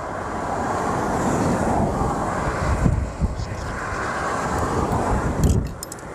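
Strong wind buffeting the microphone: a steady rushing noise with gusty low rumbles.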